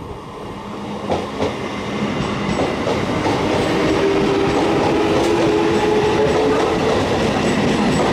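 Eastern Railway electric multiple unit (EMU) suburban train coming into the platform and running past close by, growing louder over the first few seconds and then steady, its wheels clacking over the rail joints.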